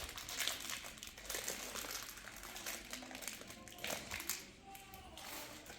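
Irregular crinkling and rustling of something being handled, with many small clicks, and faint voices in the background.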